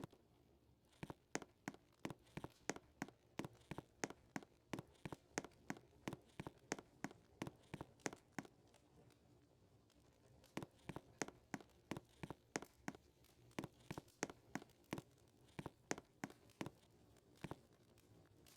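Footsteps walking at a steady pace, about three steps a second, stopping for about two seconds midway and then going on.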